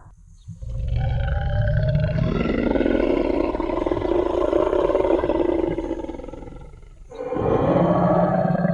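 Designed Tyrannosaurus rex roar sound effect: one long, low, growling roar lasting about six seconds that fades away, then a second roar starting near the end.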